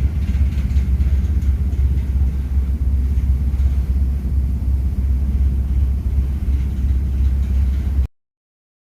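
Ferry's engines running with a steady low rumble and faint noise above it; the sound cuts off suddenly about eight seconds in.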